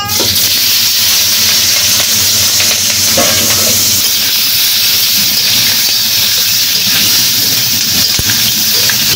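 Boiled potato chunks and green chillies dropped into hot oil with cumin seeds in a karahi: a loud sizzle starts the moment they hit the oil and carries on as an even frying hiss while a metal spatula turns them.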